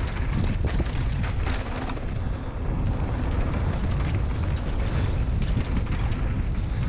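Wind buffeting the microphone over the rumble and rattle of a bicycle rolling fast along a rough trail, the rider coasting without pedalling.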